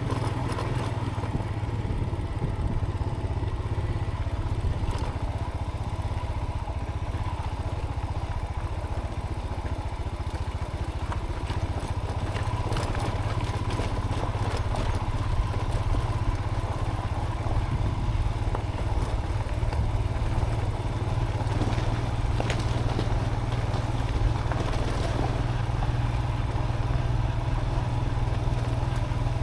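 Motorcycle engine running at steady low revs over a rough gravel track, with scattered knocks and clatter as the bike rides over stones.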